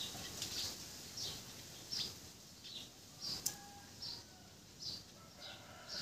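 Small birds chirping, short high notes repeating about twice a second, with two fainter drawn-out calls in the background.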